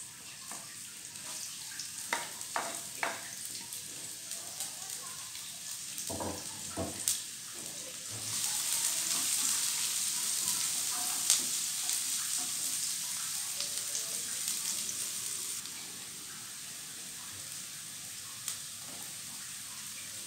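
Sliced shallots and garlic sizzling in hot oil in a wok while a wooden spatula stirs them, with scattered clicks and knocks of the spatula. The sizzle grows louder about eight seconds in and eases off a few seconds later.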